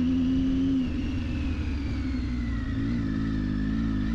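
Triumph Tiger 800XC's inline three-cylinder engine running while riding. It holds steady, eases off about a second in, then wavers in pitch, with a faint high whine slowly falling.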